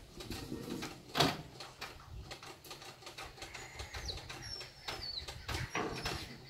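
Birds calling faintly: thin, high whistles that slide down in pitch through the second half, among a few scattered knocks and clicks, the strongest about a second in.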